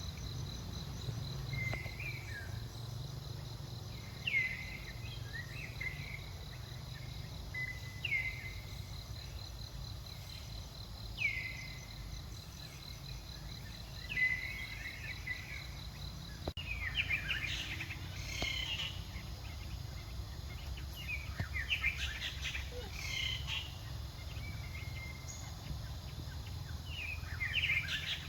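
Outdoor animal ambience. Short high chirping calls come about every three seconds, with a pulsing insect-like trill over the first several seconds. In the second half the calls become busier and more jumbled, over a low steady rumble.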